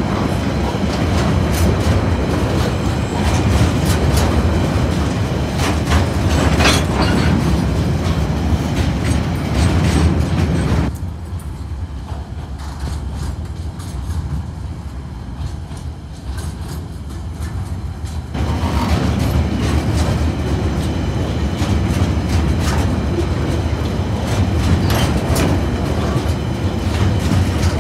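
Freight train wagons rolling past across a rail bridge: a steady rumble of wheels on rails with repeated clicks as wheels pass over rail joints. The sound grows quieter and duller for about seven seconds in the middle, then comes back louder.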